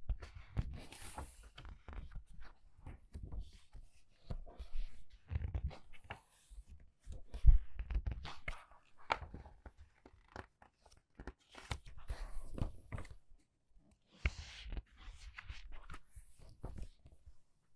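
Pages of a book being turned quickly by hand, a steady run of paper rustles and swishes with soft low thumps as the pages settle, the loudest about seven and a half seconds in.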